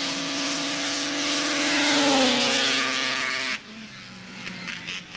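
Racing snowmobile's two-stroke engine at full throttle on a grass drag run, growing louder to a peak about two seconds in as its pitch drops. The sound cuts off suddenly about three and a half seconds in, leaving a quieter engine sound.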